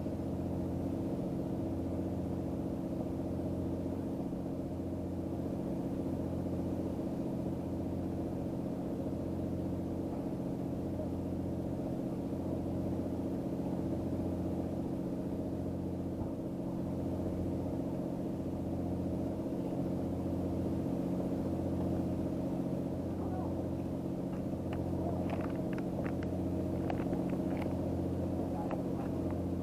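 Engine idling steadily, a droning hum with a slow regular pulse; a few light clicks near the end.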